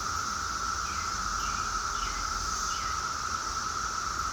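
Outdoor insect chorus: a steady, unbroken high trilling at two pitches, with a few faint short falling chirps in between and a low rumble underneath.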